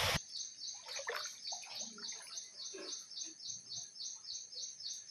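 Birds calling: a high-pitched chirp repeated steadily about four to five times a second, with scattered lower calls among it.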